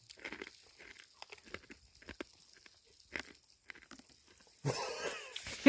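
Crunchy wasabi peas being chewed by mouth in short, irregular crunches. Near the end comes a louder, breathy burst of noise.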